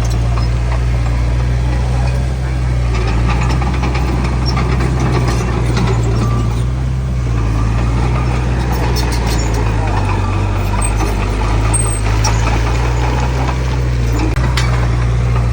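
Heavy diesel engine of earthmoving machinery running steadily at a constant pitch, with a continuous low drone.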